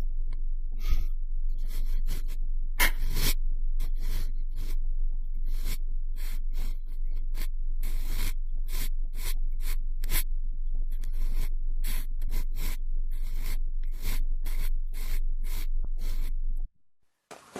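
Cotton swab rubbing and swirling inside the ear of a binaural microphone: a run of close, scratchy strokes at about two a second over a steady low rumble, stopping abruptly near the end.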